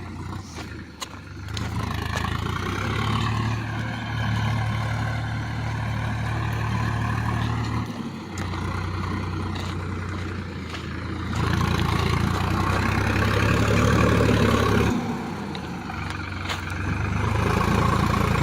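Sonalika tractor's diesel engine running under load, hauling a fully loaded trolley, its note swelling and easing several times and loudest for a few seconds past the middle.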